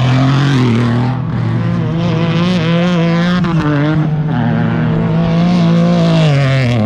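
Off-road race truck engine running at high revs, its pitch climbing about a second and a half in, holding with some wavering, then dropping near the end.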